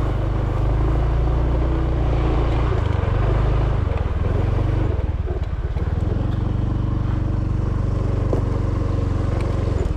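Motorbike engine running, then dropping to a steady, pulsing idle about four seconds in.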